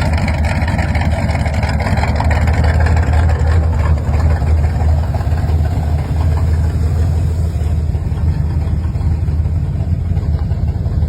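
Studebaker Avanti's small-block Chevy V8 idling steadily, with a strong low-pitched hum.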